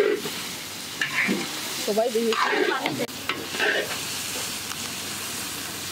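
A long-handled metal spatula scraping and stirring spiced minced beef and potato in a large iron karahi, with the mixture sizzling as it fries.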